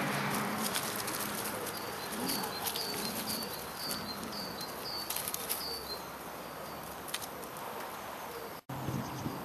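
A bird calling a run of short, falling chirps, about two a second, over a steady rustling hiss with scattered clicks. The sound cuts out for a moment near the end.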